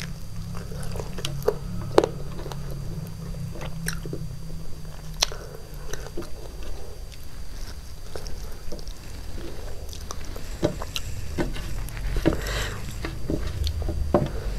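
A person biting and chewing a piece of chicken from biryani, held by hand, with irregular wet mouth clicks and smacks.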